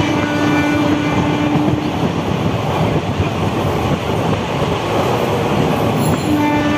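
Train running at speed, heard from on board as a steady rumble of wheels on the track. A train horn sounds one steady blast for about two seconds at the start and begins another near the end.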